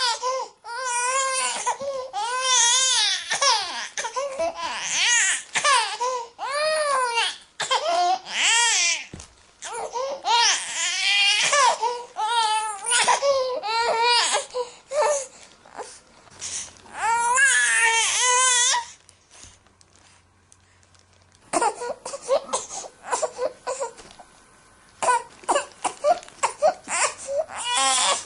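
A baby crying in repeated wavering wails, each cry bending up and down in pitch. About two-thirds of the way in the crying stops, and after a short pause it turns to quieter, shorter fussing sounds.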